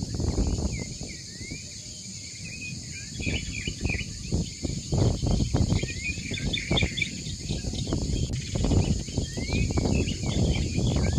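Small birds chirping and twittering in quick short notes, over a steady low rumbling noise broken by irregular soft thumps.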